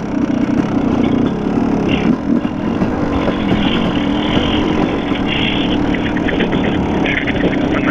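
Dirt bike engine running steadily under load on a rough, bumpy trail, with bursts of clatter in the second half.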